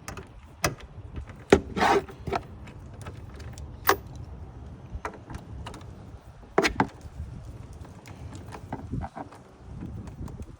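Scattered clicks and knocks with a short rattle of tools and parts being handled under a car's hood, during removal of engine-bay parts and their bolts.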